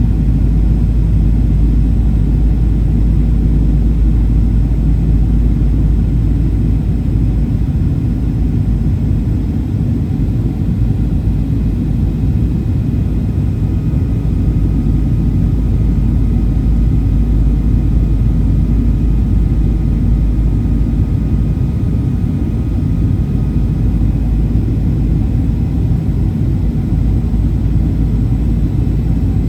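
Steady low rumble of engine and airflow noise inside the cabin of a Boeing 737-800 with CFM56-7B engines, with a faint steady whine above it.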